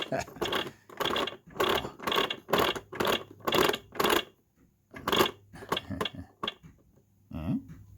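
Telly the Talking Clock toy's hands being turned by hand, its plastic gear mechanism ratcheting in a run of clicks about twice a second, then a few scattered clicks.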